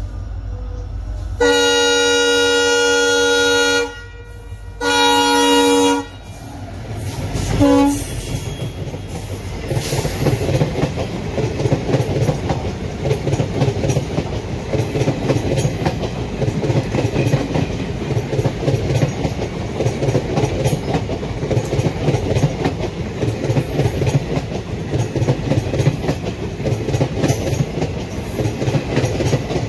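WDP4D diesel locomotive sounding its horn on approach: a long blast, a shorter one and a brief toot. The locomotive and its passenger coaches then rush past with steady, rhythmic wheel clatter over the rail joints.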